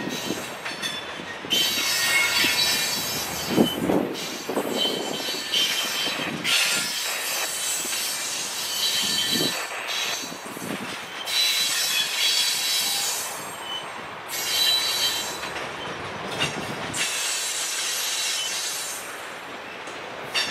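Freight train of loaded covered hopper cars rolling past, wheels clicking over the rail joints, with high-pitched wheel squeal coming and going in stretches of a few seconds.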